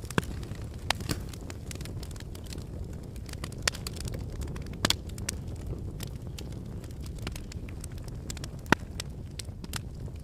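Wood fire burning in a fireplace: a steady low roar of flames with scattered sharp crackles and pops from the burning logs, the loudest pop near the end.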